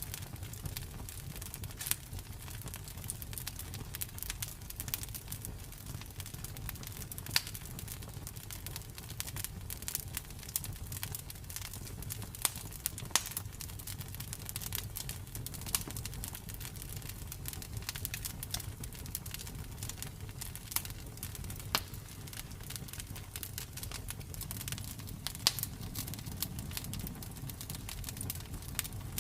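Campfire crackling, with irregular sharp pops and snaps over a steady low rumble of burning.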